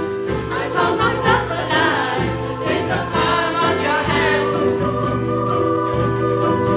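Live music: a large choir singing in chorus over instrumental backing, with percussion hits marking the beat.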